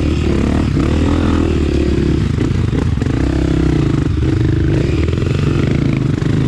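Honda CRF 250F single-cylinder four-stroke dirt bike engine running under varying throttle on a trail, its pitch rising and falling, with a few short knocks and rattles.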